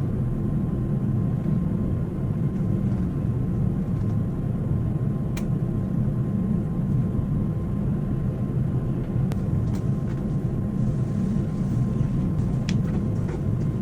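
Steady low rumble of an airliner's cabin in flight, with a few faint clicks in the second half.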